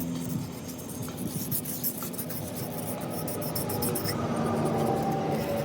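Rapid, irregular scratching and rubbing strokes, as of parts being scraped or rubbed by hand, over a steady low hum.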